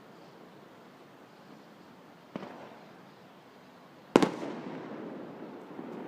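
Aerial fireworks shells bursting against a steady background rush: a faint distant bang about two and a half seconds in, then a loud, sharp double crack about four seconds in, with a rumbling echo trailing after it.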